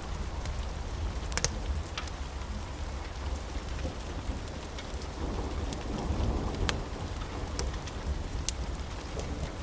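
Steady rain with a low rumble of thunder that swells about halfway through, over scattered sharp clicks.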